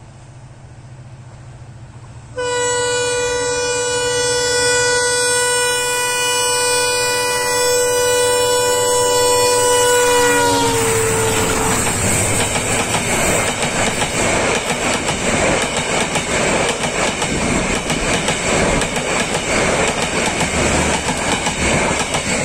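Class M11 diesel locomotive sounding its horn in one long blast of about eight seconds, the pitch dropping as the locomotive passes. Then the coaches roll by close to the track, with a rapid rhythmic clatter of wheels over the rail joints.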